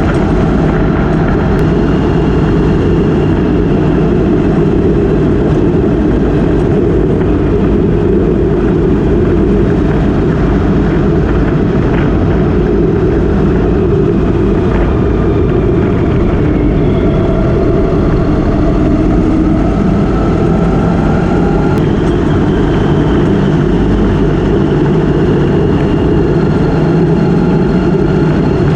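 Motorcycle engine running at a steady cruise under heavy wind rush, the engine note drifting a little in pitch.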